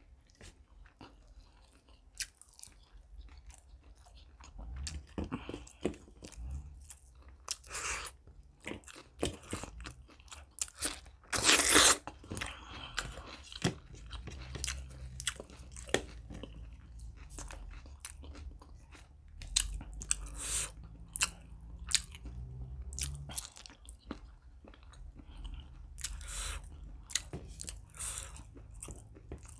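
Close-up mouth sounds of a person eating chicken liver, gizzard and paratha: steady wet chewing and biting with scattered clicks and smacks, and a louder burst about twelve seconds in.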